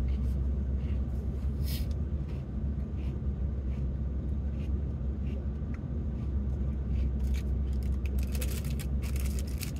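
Steady low rumble of an idling car heard from inside the cabin, with faint scattered clicks of someone chewing crunchy cookies.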